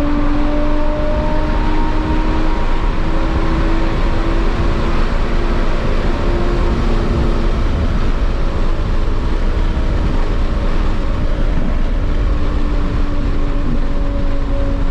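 Lotus Evora GT's supercharged 3.5-litre V6 with titanium exhaust pulling at steady cruising revs. The engine note rises slowly over the first few seconds, then eases back a little, over a heavy road and wind rumble.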